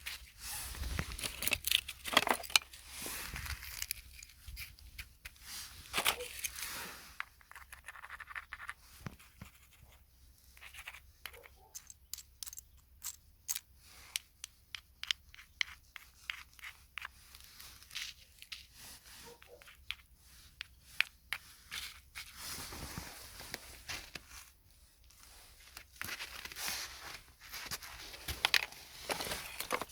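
Close-up crinkling and scratching noises with a fast run of small taps or clicks through the middle.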